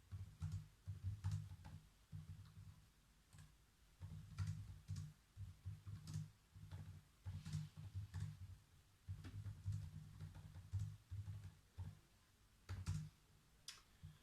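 Typing on a computer keyboard: quiet runs of key clicks with soft low thuds, in bursts broken by short pauses.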